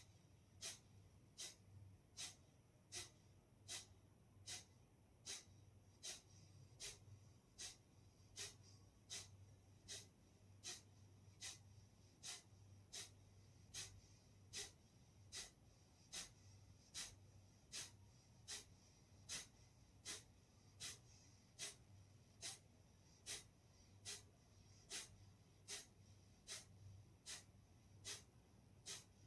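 Kapalbhati breathing: short, forceful exhalations through the nose, one sharp puff a little more than once a second, evenly paced throughout.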